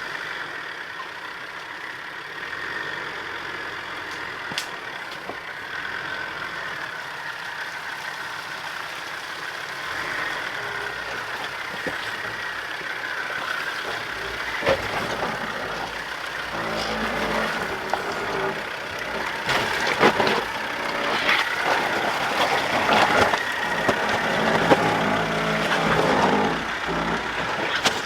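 Off-road 4x4 engine running at low speed as the truck crawls over rough, rocky ground. Knocks and clunks from about halfway in become frequent and louder toward the end.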